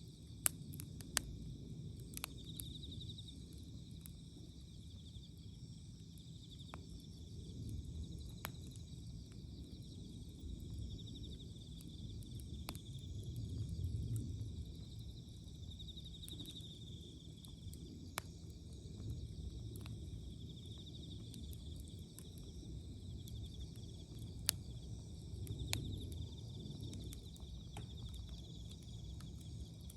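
Wood fire crackling, with scattered sharp pops over a low rumble. Insects trill in pulses in the background.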